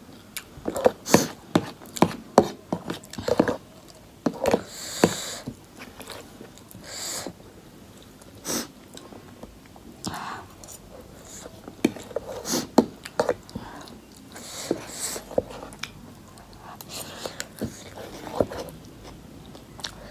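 Close-miked chewing, biting and wet mouth clicks of a person eating instant noodles and fried potatoes, in irregular bouts. A couple of short hissy sounds come about five and seven seconds in.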